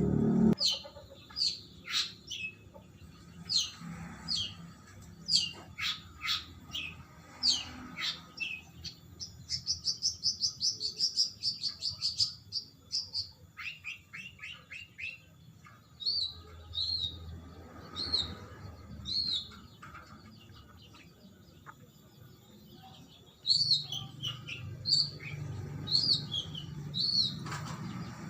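Long-tailed shrike (cendet) in continuous song: a long varied run of sharp chirps and quick down-swept notes, with a fast trill lasting about three seconds around the middle and a series of short repeated notes near the end.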